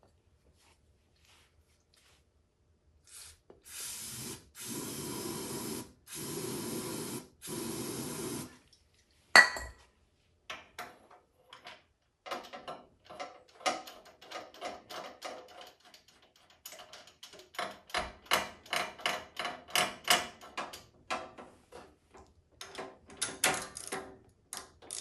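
Several short hisses of an aerosol spray can. Then a sharp metallic clack, followed by a long irregular run of quick clicks and taps from hand tools on the engine.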